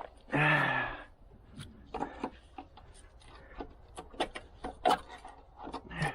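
Hand work on car suspension parts: a brief loud pitched sound about a second in, then scattered small taps and clinks of tools and metal parts being handled.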